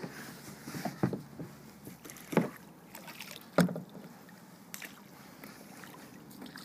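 Kayak paddle strokes splashing into the water, a sharp splash roughly every second and a quarter, the loudest about three and a half seconds in, then weaker.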